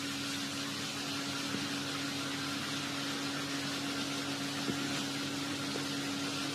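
Steady hiss with a constant low hum underneath, and a couple of faint ticks.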